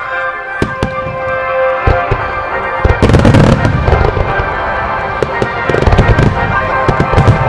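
Aerial fireworks shells bursting: scattered sharp bangs and crackles, with dense volleys of bursts about three seconds in, near six seconds and again near the end. Music with steady sustained tones plays underneath.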